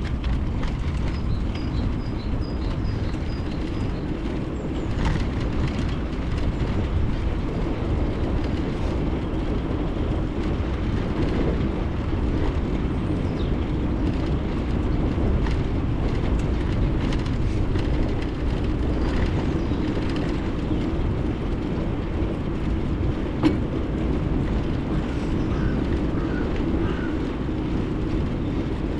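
Steady rolling rumble of a bicycle ride heard through a bike- or body-mounted action camera: tyre noise on the road surface and frame vibration, with some wind on the microphone. There are a few faint light clicks, and a single sharp click about 23 seconds in.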